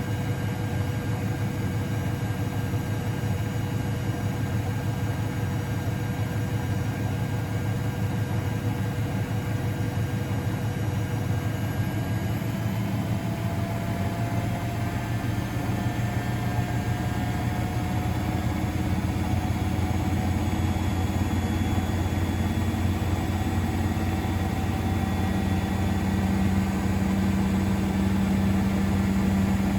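Miele Novotronic W921 washing machine running, its motor tones slowly rising in pitch as the drum speeds up. A deeper hum strengthens near the end.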